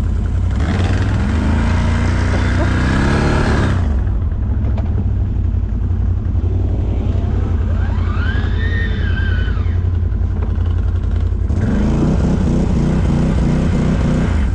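ATV (quad) engine running hard and revving under load, its pitch rising and falling in surges, with a higher whine that rises and falls about halfway through.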